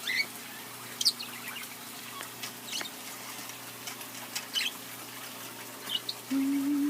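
Parakeets chirping: a few short, high chirps spaced out over several seconds, with a low steady hum for about a second near the end.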